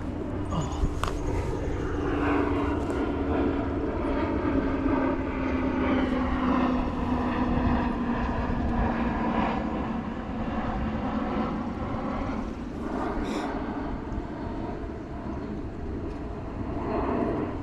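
A passing engine drone: a steady hum whose pitch falls slowly over about eight seconds, over a constant low rumble.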